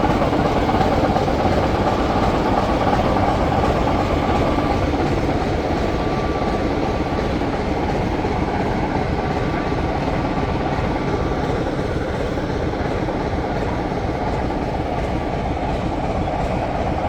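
British Rail green heritage diesel locomotive's engine idling at a standstill: a steady, even running noise with a faint thin whine in the middle.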